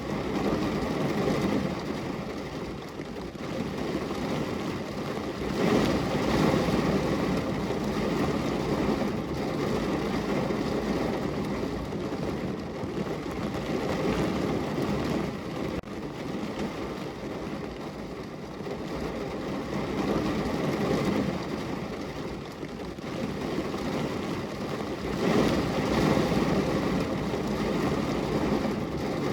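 Heavy rain drumming on a car's roof and body, heard from inside the car, with a steady dense patter that swells and eases every few seconds.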